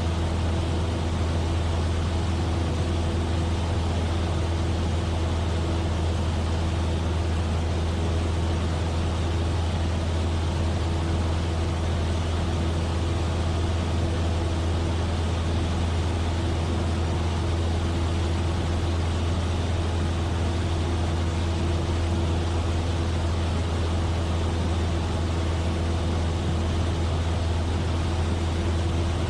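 Cessna 172F's six-cylinder Continental O-300 engine and propeller droning steadily in flight, heard from inside the cabin as a constant deep drone with a steady hum over a hiss.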